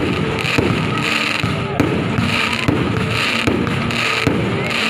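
Fireworks going off in rapid succession: dense popping and crackling, with a crowd's voices beneath.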